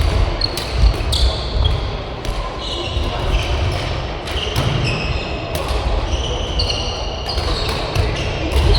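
Badminton rally in a sports hall: a string of sharp racket-on-shuttlecock hits mixed with short high squeaks of court shoes on the floor, over the hall's low background rumble.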